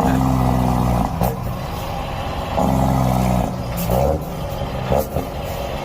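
Straight-piped diesel engine of a Shacman X3000 heavy truck revved twice, each held for about a second before dropping back to idle, with a few short sharp cracks between the revs.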